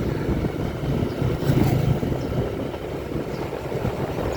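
Low, continuous rumble of a vehicle engine running while on the move.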